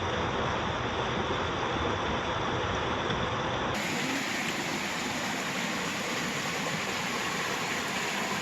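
Steady rushing of a rainforest stream. The tone changes abruptly about four seconds in, turning brighter and less rumbly.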